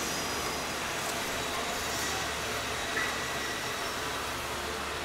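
Steady running noise of a passenger train, heard from inside the carriage, with a short higher note about three seconds in.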